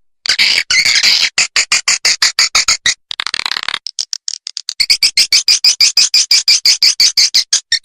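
Swiftlet call lure track: a fast, steady train of short high chirps, about seven a second, with a brief buzzy stretch and a short break near the middle. It is the kind of call played through speakers at swiftlet houses to attract and keep swiftlets roosting and nesting.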